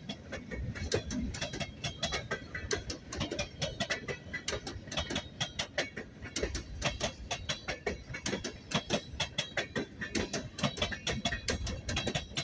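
WNYP freight train rolling past: a steady low rumble under rapid, uneven metallic clicking from its wheels.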